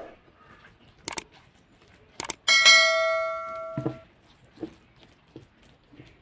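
Metal utensil clinking on a metal dish: two light clicks, then a sharp strike about two and a half seconds in that rings for about a second and a half, followed by a few faint taps.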